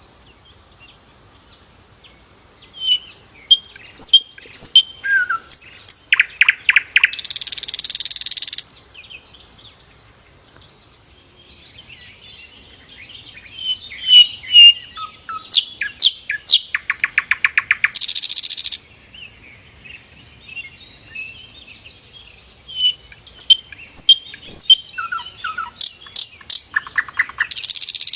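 Sikatan londo (flycatcher) singing in three similar bouts a few seconds apart: high chirping notes and rapid trills, each bout ending in a loud harsh buzzing rattle.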